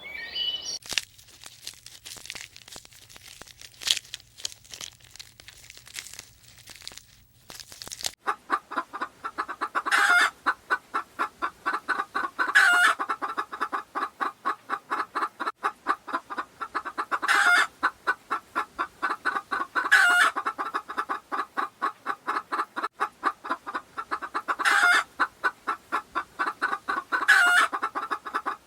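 Chickens clucking in a fast, even run from about eight seconds in, with a louder, sharper sound every two to three seconds. Before that, scattered clicks over a low hum.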